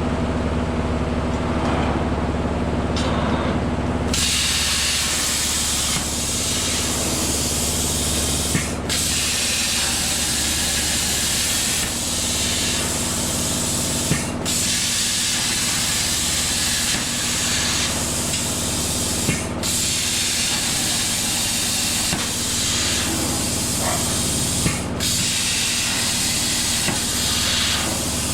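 CNC plasma cutter arc cutting steel plate: a loud, steady hiss that starts about four seconds in and is broken by a brief drop about every five seconds, over a steady low machine hum.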